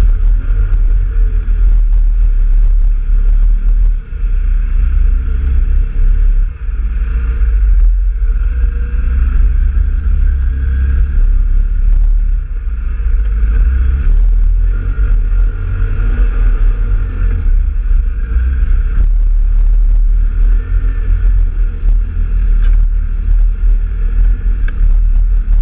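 An off-road vehicle's engine running steadily on a trail ride, its pitch wavering a little, under a heavy low rumble of wind buffeting the microphone.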